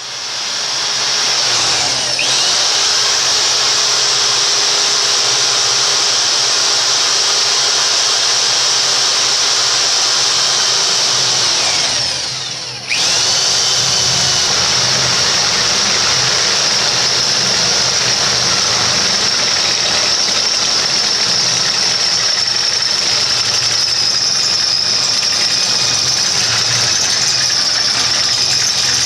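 Power drill running a large step drill bit through a steel receiver hitch mount, a steady high-pitched whine of the bit cutting metal. About 12 seconds in the drill slows and stops briefly, then starts again at full speed.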